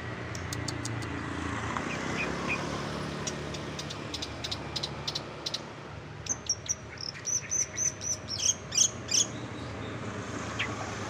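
Long-tailed shrike (cendet) singing a mimicry song: a string of short sharp clicking notes, then from about six seconds in a quicker run of high chirps, loudest near the end of the run. A steady low rumble like engine noise runs underneath.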